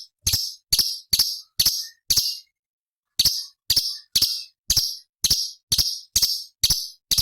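Cucak cungkok (orange-bellied leafbird) giving a run of short, harsh chattering notes, about two a second, with a brief pause about two seconds in.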